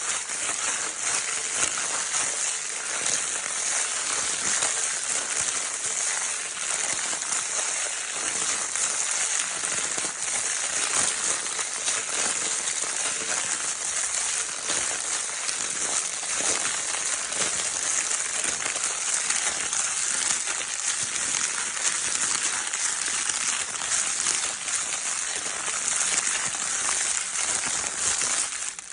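Baby crinkle paper toy being crumpled and rustled without a break: a dense, even crackling of many small clicks.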